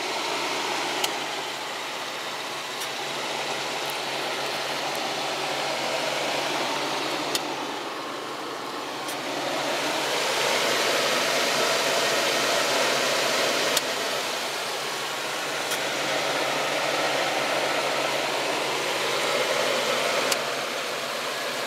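A 1980 Oldsmobile's engine idling steadily, heard as an even hum and hiss that grows louder about ten seconds in as the front grille is approached.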